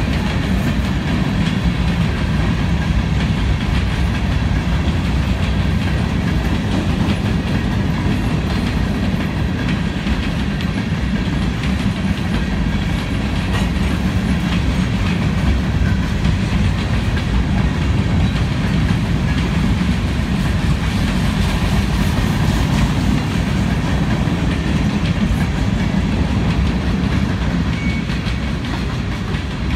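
Freight train cars rolling past: covered hoppers and then covered gondolas of a Union Pacific mixed freight. Their steel wheels give a steady low rumble with a continuous clickety-clack over the rail joints.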